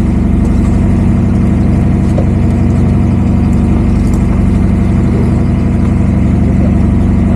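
A fishing boat's engine running steadily with a loud, even drone.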